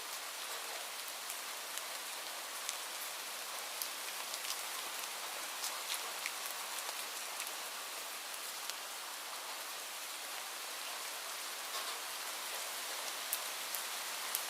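Steady rain falling, an even hiss with many distinct drops ticking sharply on a surface.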